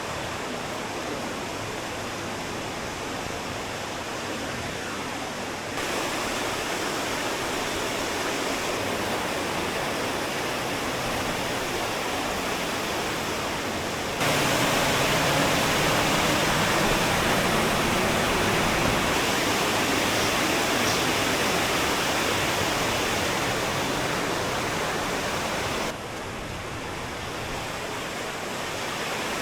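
Waterfall and fast-flowing river water rushing steadily, louder in abrupt steps about six and fourteen seconds in, then dropping sharply near the end.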